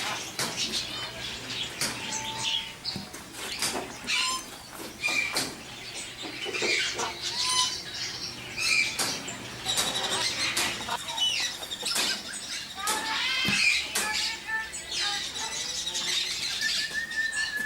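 Many birds chirping and squawking together in continuous chatter, short calls, clicks and whistles overlapping without pause.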